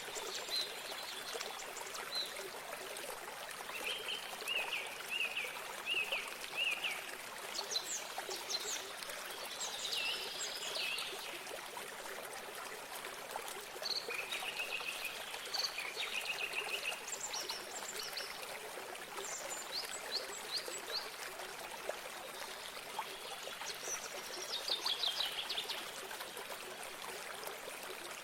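Running water from a small stream or spring, flowing steadily, with songbirds singing over it in short phrases of quick repeated high notes every few seconds.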